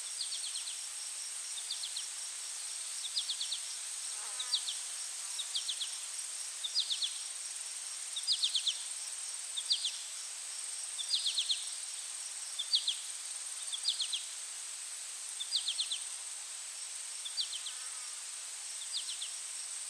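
Insects calling: a steady high-pitched drone underneath, with cricket-like chirps of three or four quick pulses repeating about every second and a half.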